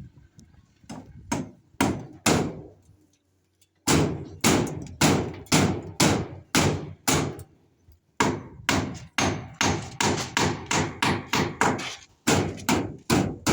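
Hammering: four blows, a short pause, then a long run of steady blows about two a second, broken by brief breaks.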